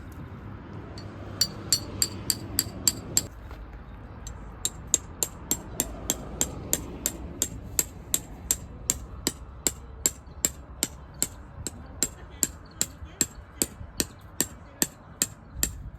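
Rapid, evenly spaced hammer-like blows, about two to three a second, with a short pause after the first few seconds before they carry on.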